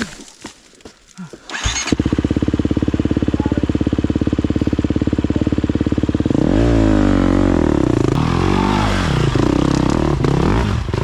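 A four-stroke dirt bike engine starts suddenly about two seconds in and idles with a steady, even beat. From a little past the middle it is revved up and down again and again, as the rider works to power the bike out of the boggy creek.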